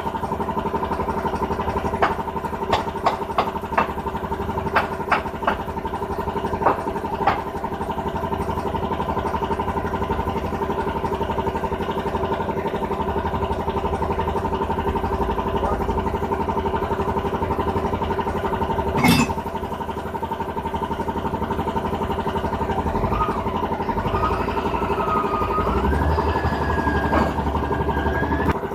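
A motor runs steadily throughout. Over it come a run of sharp clicks or taps in the first several seconds and one louder knock about two-thirds of the way through.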